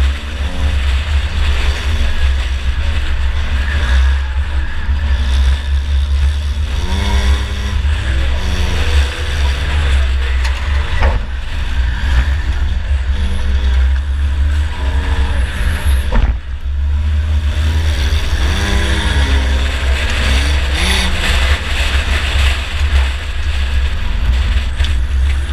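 2004 Chevy Impala race car's engine running under heavy in-car rumble, its pitch rising and falling several times as it revs up and backs off. Two sharp knocks land near the middle, about five seconds apart.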